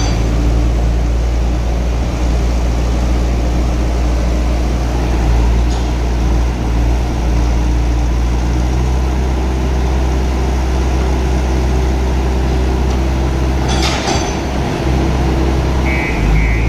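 Telehandler's diesel engine running steadily while it works, with a burst of metallic clinks about fourteen seconds in and a few short beeps near the end.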